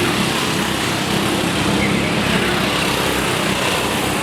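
Racing karts' small engines running at high revs on track, several overlapping into a steady, loud drone.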